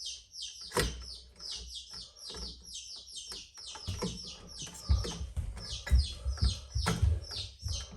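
A bird chirping steadily in a fast run of short, falling, high chirps, several a second. Over it come a few sharp knocks and rattles, loudest about five and six seconds in, from wires and the metal box being handled.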